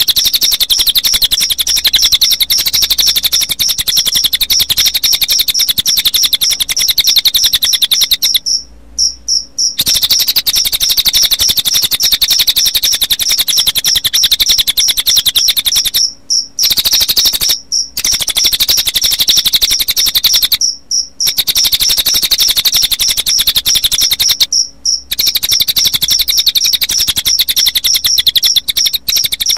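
Recorded cililin bird song mixed with cricket chirping: a loud, fast, high-pitched pulsing trill that runs on with brief breaks every few seconds.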